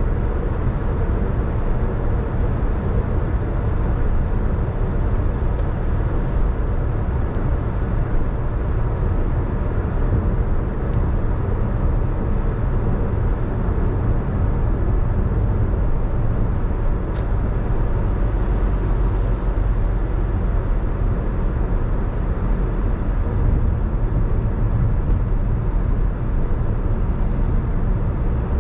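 A car driving on wet roads: a steady low engine and road rumble with tyre noise.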